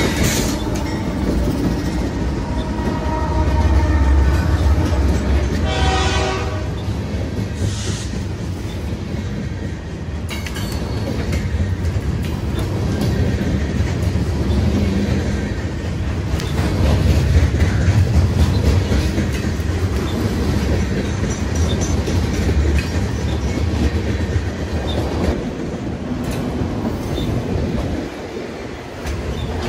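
A Union Pacific train passing: diesel locomotives rumble under the clatter of wheels over the rails. A horn sounds at the start and fades about a second in, with a short second blast around six seconds.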